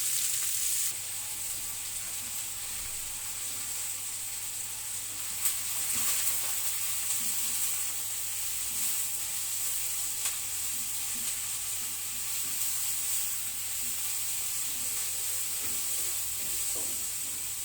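Onion slices sizzling as they fry in oil in a pan on a high flame, a steady hiss with a few clicks of stirring.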